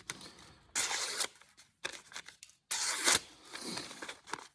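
Hand-made 1075 carbon steel knife slicing through paper, two main slicing strokes with lighter rustles between: a sharpness check of the edge after whittling.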